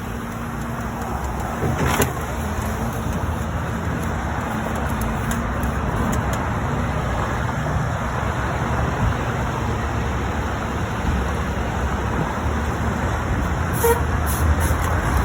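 Steady vehicle and highway traffic noise, with a sharp knock about two seconds in and a few short clicks near the end.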